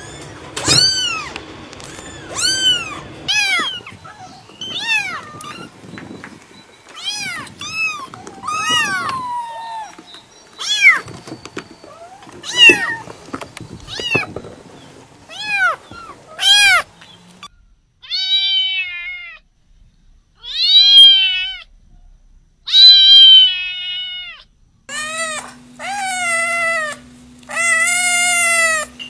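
Domestic cat meowing again and again: short meows about once a second, then longer, drawn-out meows. A steady low hum sits under the last few calls.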